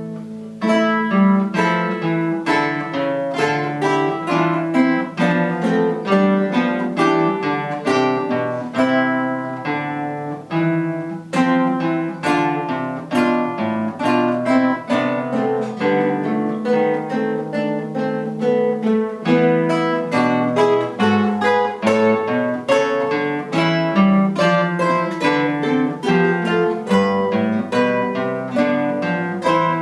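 Guitar ensemble of several acoustic guitars playing an instrumental piece together, plucked notes in a quick, even rhythm.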